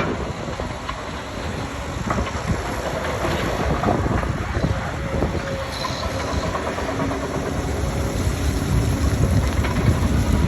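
Liebherr R924 excavator digging in chalk: a steady low machine noise of engine and hydraulics, with irregular knocks and rattles from the bucket working the chalk.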